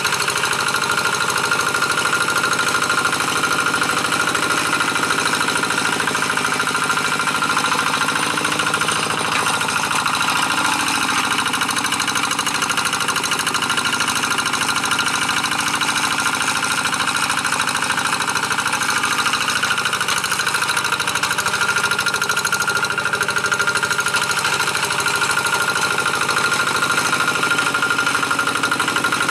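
Two-wheel hand tractor's single-cylinder diesel engine running steadily with a rapid knocking chug, working under load as it pulls a moldboard plough through dry paddy soil.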